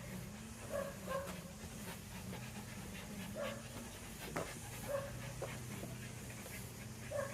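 A dog panting, with short repeated breaths over a steady low hum and a few sharp clicks.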